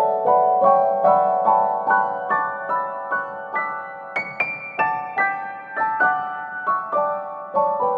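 Background piano music: a gentle melody of single notes, about two to three a second.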